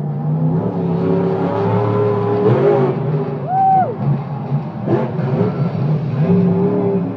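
Monster truck's supercharged V8 engine running and revving, its pitch rising and falling as it is worked. A short tone that rises and falls is heard about halfway through.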